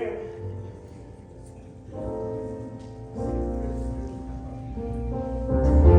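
Instrumental keyboard music: held chords with a deep bass line, changing every second or so and growing louder near the end.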